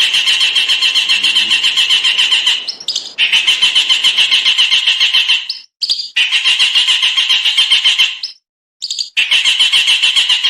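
A small songbird sings long, rapid, harsh trilled bursts (the 'tembakan kasar' style). There are four runs of fast repeated notes, each about two and a half seconds long, with short pauses and a quick separate note between them.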